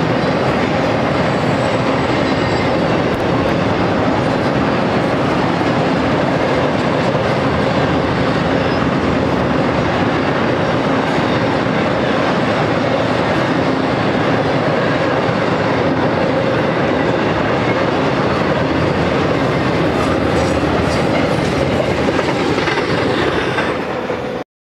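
Intermodal freight train's cars, loaded with highway trailers, rolling past: a steady rumble and clatter of steel wheels on the rails, which cuts off suddenly near the end.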